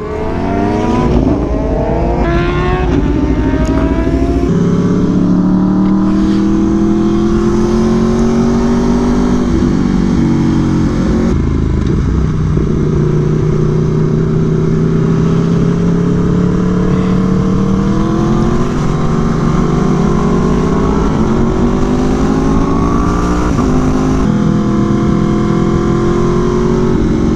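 2017 Aprilia Tuono V4 1100 Factory's V4 engine with an SC Project CR-T exhaust, heard on board while riding on track: the engine note climbs slowly in pitch and drops back several times as the rider changes gear.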